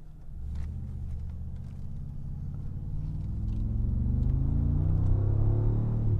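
Mercedes-AMG G63's twin-turbo V8 accelerating in Sport mode. The engine note rises steadily in pitch and grows louder over the last few seconds.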